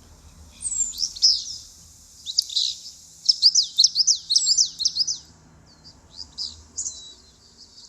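Songbird singing: a series of high, quick down-slurred chirps, thickest in a fast run in the middle, then a few scattered notes near the end.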